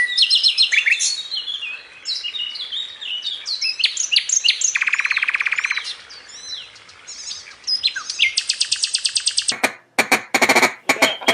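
A mix of small birds chirping and whistling in many overlapping calls, with a fast trill about halfway through and another high trill later. Near the end, loud harsh calls in quick succession take over.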